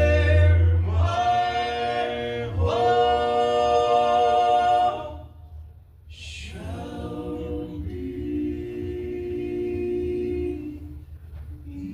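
Male Southern gospel quartet singing long held notes together, in two sustained phrases with a short break about five seconds in.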